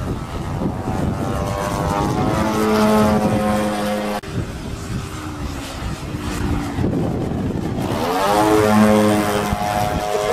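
RC airplane's motor and propeller throttling up twice, the pitch rising and then holding steady, with a sudden break about four seconds in. Wind buffets the microphone with a low rumble throughout.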